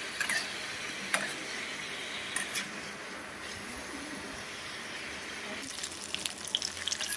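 Pieces of pork frying in a pan: a steady sizzle with a few clicks of a metal spatula against the pan. The sizzle turns to sharper crackling and spitting near the end.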